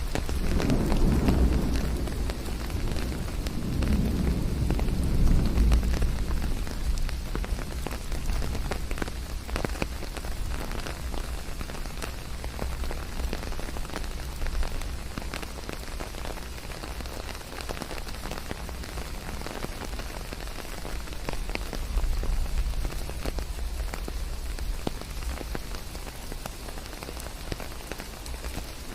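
Steady rain falling, blended with white noise, with deep rumbles of distant thunder swelling through the first several seconds and again about 22 seconds in.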